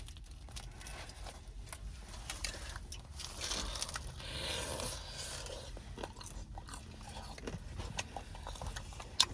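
A person biting into and chewing a hot calzone, with small crunches and clicks from the crust. There is a sharp click near the end.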